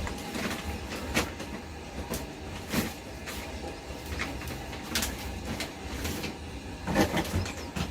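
Plastic propagator trays being filled by hand: scattered scrapes and sharp plastic knocks, a few seconds apart, over a low steady hum.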